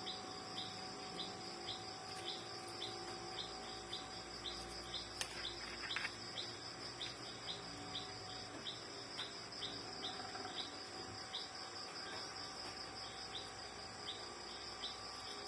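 Crickets chirping in an even rhythm of about two to three chirps a second over a steady high insect drone, with one faint click about five seconds in.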